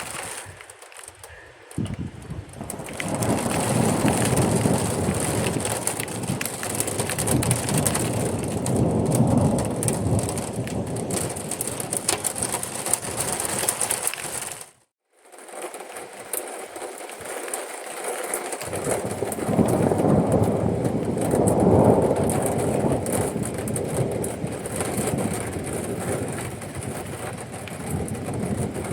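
Rolling thunder over a steady hiss of rain: a long low rumble swells up about two seconds in and rolls on for some twelve seconds. The sound cuts out briefly halfway, and then a second long rumble comes.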